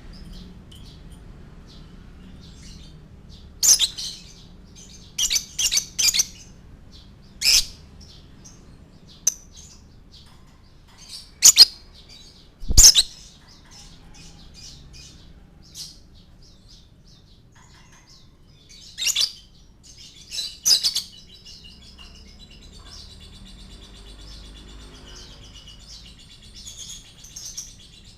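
Lovebird giving loud, sharp, shrill chirps singly and in quick groups of two or three, then breaking into a continuous high twittering trill for the last several seconds.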